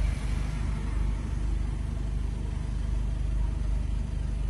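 Volkswagen Arteon's engine idling, heard from inside the cabin as a steady low rumble.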